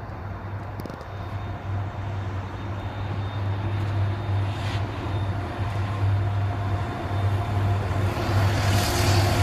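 A CSX freight train's diesel locomotives approaching: a steady low engine rumble that grows louder throughout, with a rising hiss coming in near the end.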